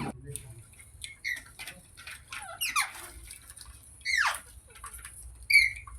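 Pet green parrot giving short squeaky chirps and two longer calls that slide steeply down in pitch, about three and four seconds in, with faint clicks between.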